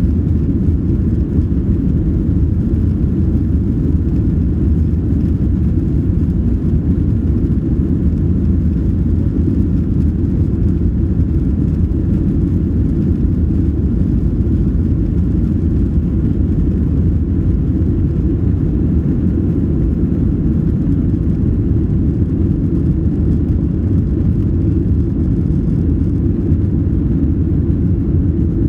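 Boeing 737-800 airliner heard from inside the cabin: a steady, loud, low rumble of engines and airflow that holds unchanged throughout.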